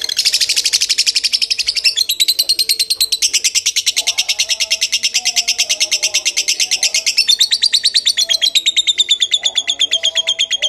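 A lovebird giving one long, unbroken, rapid high-pitched chattering trill, with its pitch stepping about two seconds in and again about seven seconds in. Fainter lower bird calls sound underneath.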